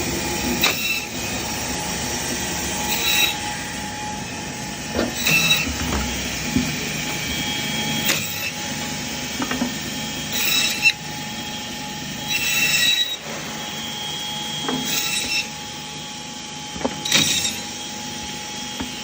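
Band saw meat and bone cutting machine running with a steady hum, with a short, louder rasping burst every two to three seconds as the blade cuts through the fed meat and bone.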